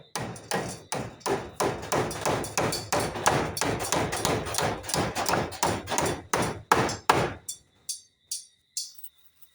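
Hammer driving nails: a quick, steady run of hard blows, about three or four a second, that stops about seven seconds in, followed by a few lighter taps.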